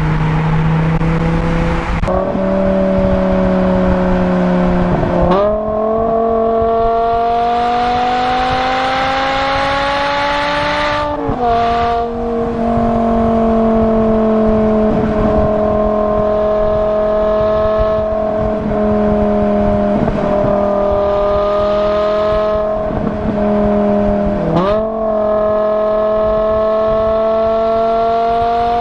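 BMW M6's naturally aspirated V10 engine running hard under load, its note climbing as it accelerates and changing abruptly with the gears. The revs jump sharply about 2, 5 and 25 seconds in and drop about 11 seconds in, with a steadier stretch in between.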